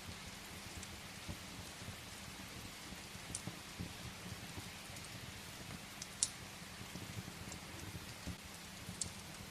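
Steady rain hiss, with a few sharp pops of burning firewood crackling in a fireplace, the loudest a little past the middle.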